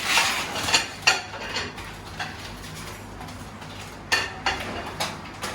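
Plates and cutlery clattering and clinking as they are handled, in a run of knocks over the first second or so and another about four seconds in.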